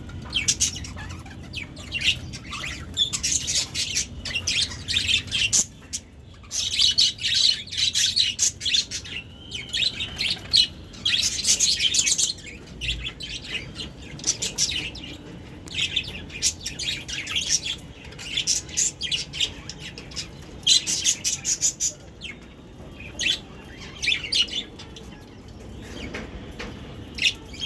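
Budgerigars chirping and chattering in bursts of rapid high chirps, with short pauses between the bursts.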